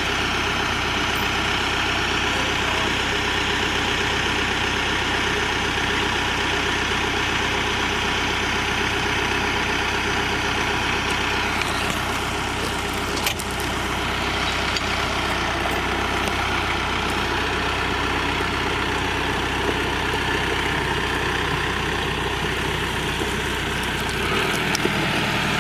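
Farm tractor engine running steadily while working a log grapple, with a single sharp knock about 13 seconds in and a change in the engine's low note near the end.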